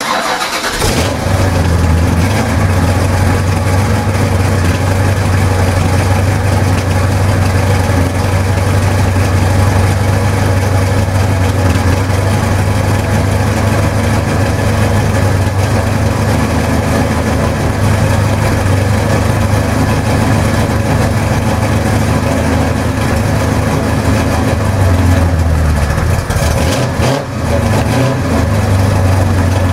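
Holden 308 V8 idling through a dual exhaust with Aeroflow mufflers, a steady deep drone. The note shifts briefly near the end.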